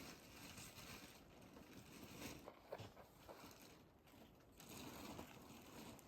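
Near silence with faint, irregular rustling and a few soft clicks.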